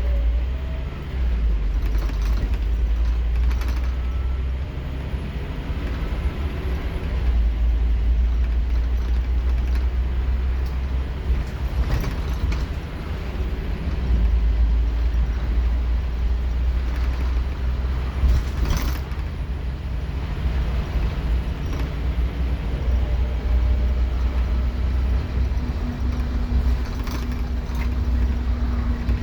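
Scania K230UB bus's five-cylinder diesel engine working hard under kickdown acceleration, heard from inside the bus, its drone swelling and easing as the automatic gearbox holds and changes gear. Body rattles and a few sharp knocks come through over it.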